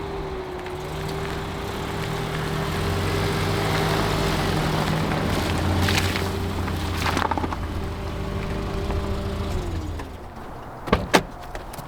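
A car engine running at steady revs, growing louder toward the middle, then dropping in pitch as it eases off about ten seconds in. Two sharp clicks follow near the end.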